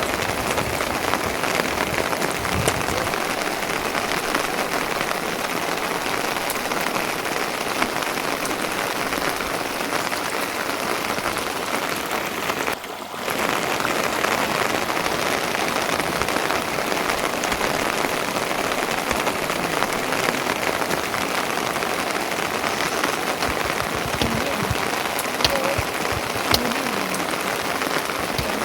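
Steady rain falling, a continuous dense hiss with scattered small drop ticks. The sound drops out briefly about 13 seconds in, then resumes unchanged.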